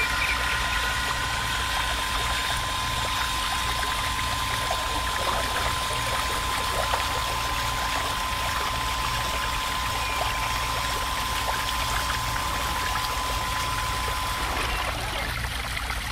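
A thin jet of water from a miniature electric water pump's spout pouring and splashing into water, steady throughout. A steady thin whine runs under it and stops shortly before the end.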